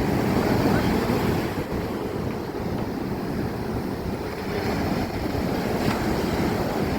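Wind buffeting the microphone over a steady rush of surf on the shore.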